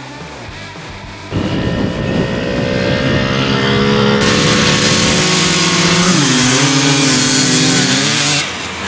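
Motorcycle engine running loudly, starting abruptly a little over a second in. Its pitch climbs as it revs about six seconds in, then it drops back briefly near the end.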